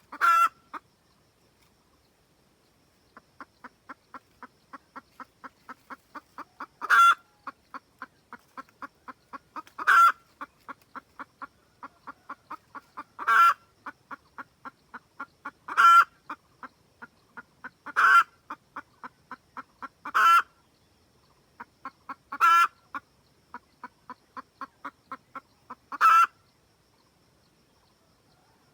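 Red junglefowl hen cackling: runs of quick soft clucks, each ending in a loud, drawn-out squawk, over and over. This is the hen's call that draws a rooster to her.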